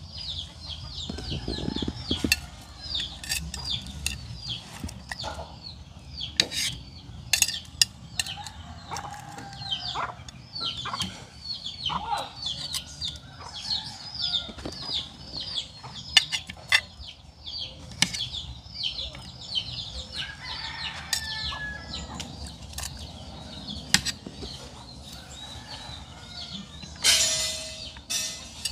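A bird chirping over and over in quick short high notes, with sharp metal clicks and clinks of serving tongs against plates, and a brief rustling burst near the end.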